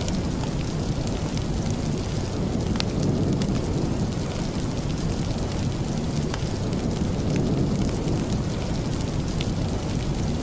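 Steady rain with a deep low rumble, mixed with scattered sharp crackles of a wood fire in a fireplace.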